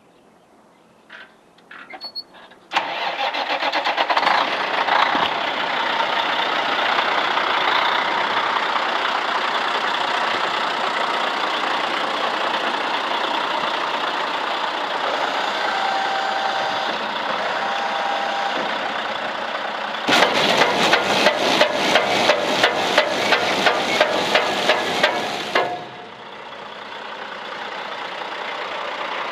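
2003 International 7000 truck's diesel engine starting up about three seconds in after a few clicks, then running steadily. About twenty seconds in it turns to a louder rhythmic pulsing of about three beats a second for some six seconds, then drops away and slowly builds again.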